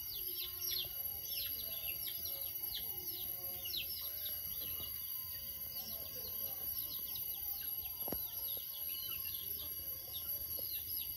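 Small birds chirping over steady outdoor background noise: short, high, downward-sliding calls repeating several times a second.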